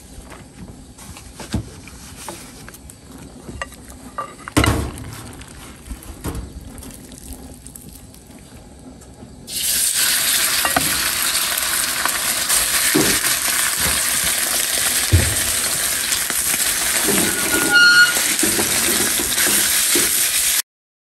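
Sliced marinated beef dropped into hot oil in a wok, sizzling loudly from about halfway through and frying on steadily as it is stirred with a wooden spatula. Before that, only a few light knocks and clinks. The sound cuts off abruptly just before the end.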